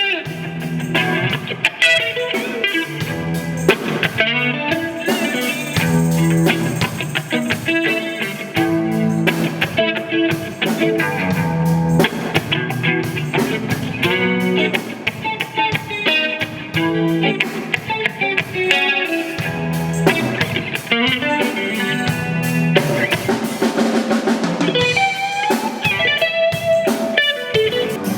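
Live band playing an instrumental passage: guitar over drum kit and percussion, with a steady beat.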